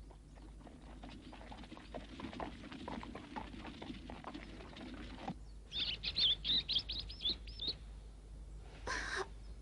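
Birds chirping on a cartoon soundtrack: a quick run of high chirps about six seconds in, after several seconds of soft pattering clicks.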